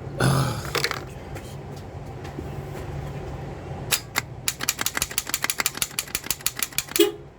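Starter circuit of a 2002 Toyota Solara chattering instead of cranking: a fast run of sharp clicks, about eight a second, lasting around three seconds in the second half. This is typical of a starter solenoid that is not getting a solid connection.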